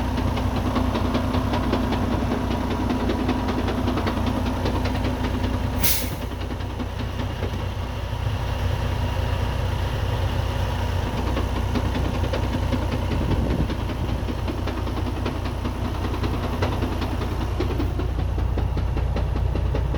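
Freightliner Cascadia's diesel engine idling with a fast rattle from its 13-speed transmission, the noise it makes with the clutch released, a sign of gear damage. A short, sharp air hiss about six seconds in.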